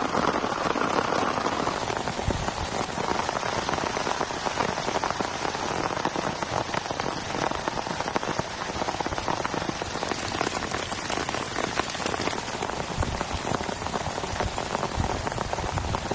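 Heavy rain falling, a dense, steady patter of many drops.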